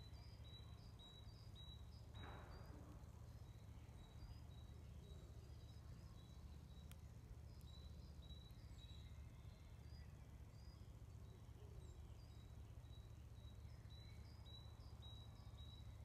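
Faint woodland birdsong: short high chirping notes repeating throughout, over a low steady rumble.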